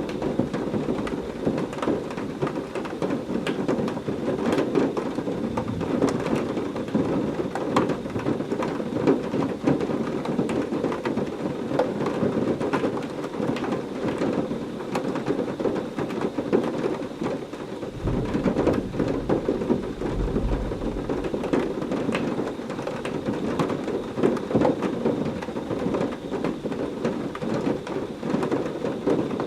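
Heavy rain falling steadily, with many separate drops pattering on a surface. A low rumble of thunder comes in about two-thirds of the way through.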